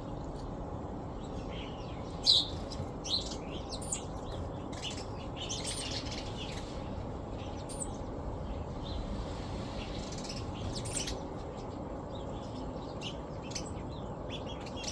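Birds chirping in scattered short high calls, the loudest about two seconds in, over a steady low background rumble.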